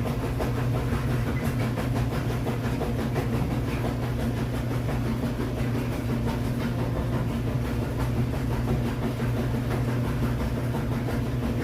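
Steady mechanical drone with a strong low hum, running evenly without change.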